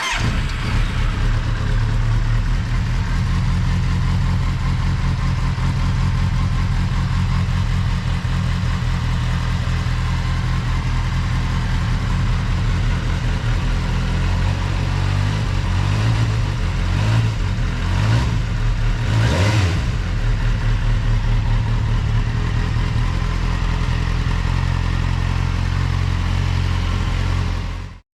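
2015 Kawasaki Z800's inline-four engine idling through an SC Project oval carbon slip-on exhaust, a steady low note with a few quick throttle blips a little past the middle.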